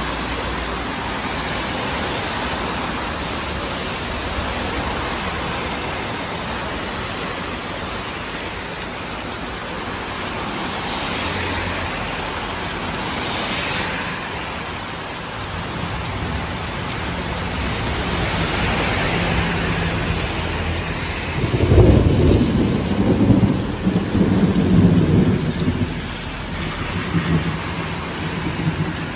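Heavy rain pouring down steadily, with cars swishing past on the flooded road now and then. About two-thirds of the way through, a loud low rumble comes in for a few seconds.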